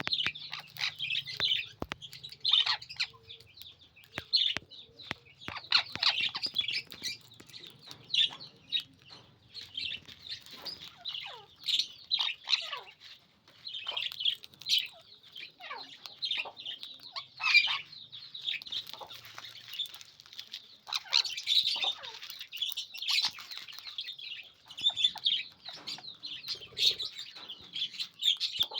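Sun conure parrot calling: many short, sharp, high-pitched chirps and squawks in quick runs, with brief pauses between.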